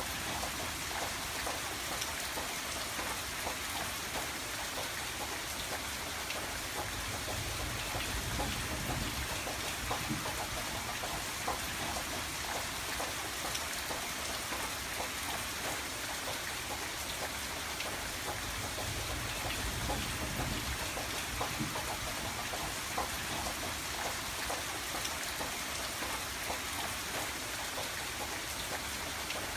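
Steady rain on window glass: many small drop ticks over an even hiss. A low rumble swells twice underneath.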